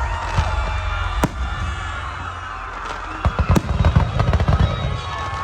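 Aerial fireworks going off: a couple of sharp bangs in the first second and a half, then a rapid run of low pops and crackles from about three seconds in, with music playing underneath.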